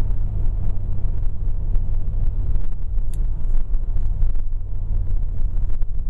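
Car engine and exhaust through a Flo-Pro muffler, heard inside the closed cabin while cruising at about 50 mph: a steady low rumble with road noise, quiet.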